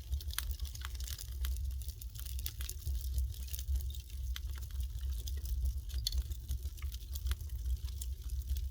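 Wood fire crackling: irregular sharp pops and snaps from burning firewood over a steady low rumble.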